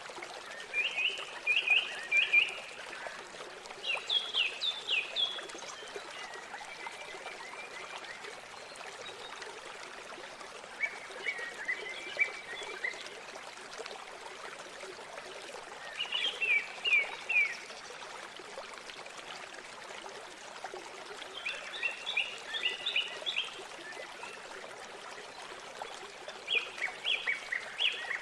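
River water flowing steadily, with a small songbird singing short phrases of quick high notes, one burst about every four to five seconds.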